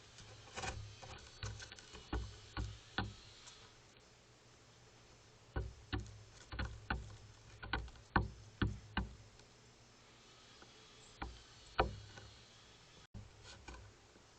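A bird pecking at a feeder: irregular sharp taps, a run of about six, then about eight more after a pause, then two more.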